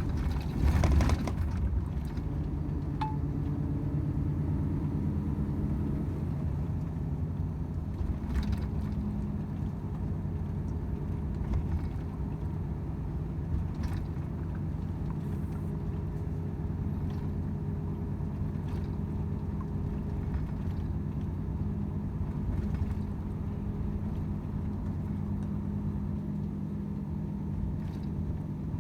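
Volvo FH 500 truck's 13-litre six-cylinder diesel running steadily on the road, a low even drone. There is a louder knock about a second in and a few faint clicks later.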